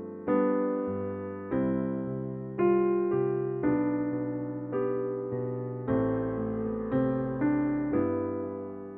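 Slow background piano music: chords struck about once a second, each fading away before the next.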